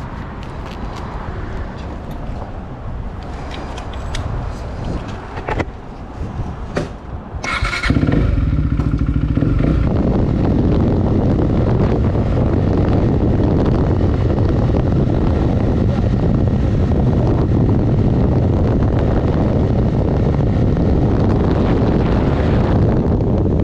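Motorcycle engine starting about a third of the way in, with a few clicks and handling noises before it. The engine runs, then gives way to a loud, steady rush of wind and engine noise on the microphone as the bike rides.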